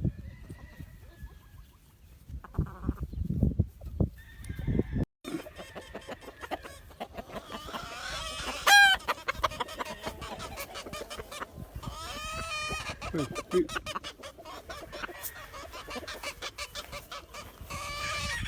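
Gamefowl roosters and stags clucking and crowing, with the loudest crow about nine seconds in.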